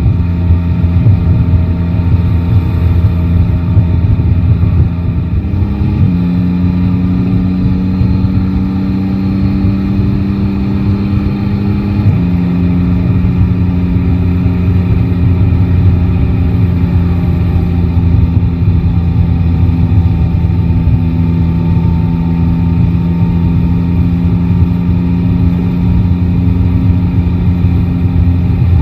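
Motorcycle engine running at a steady cruise under a low rumble. The pitch steps up about six seconds in, climbs slowly, drops suddenly about twelve seconds in, then holds steady.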